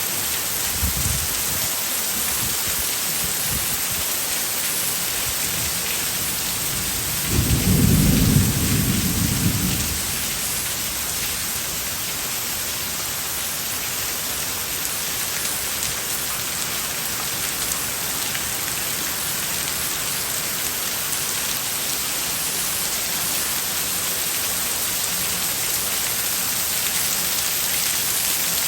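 Heavy tropical rain pouring down steadily, with a low rumble of thunder about seven seconds in that lasts a couple of seconds.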